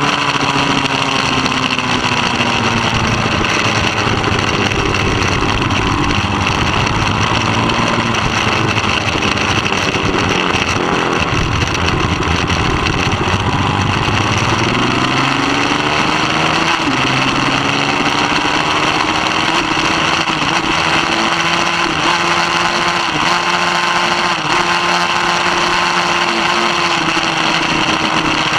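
Middleweight superbike engine running hard at race pace. Its pitch sinks slowly, then climbs and holds high with a few quick dips like gear changes, and falls again near the end.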